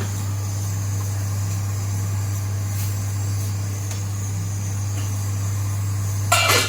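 A steady low hum with a faint hiss over it, and a brief clatter near the end.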